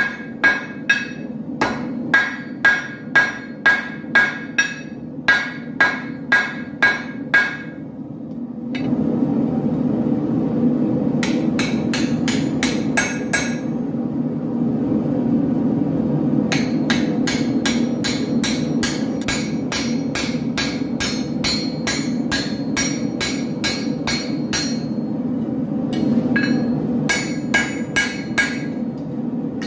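Hand hammer striking hot steel on an anvil in runs of blows, each with a short metallic ring, at about two a second at first. A little after a third of the way in a steady low rushing noise starts underneath, and the blows come faster, in runs with short pauses between.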